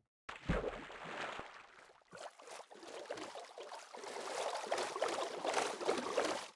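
Water splashing and gurgling, starting after a brief silence, dipping about two seconds in, then growing louder before it cuts off abruptly.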